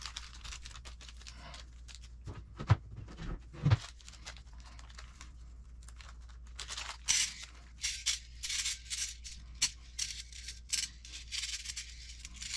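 Two sharp clacks of small hardware set down on a workbench, then a run of quick crinkling, tearing noises from a small plastic parts bag being handled and opened.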